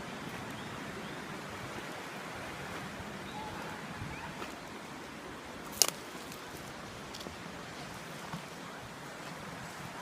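River water running steadily, with one sharp click almost six seconds in.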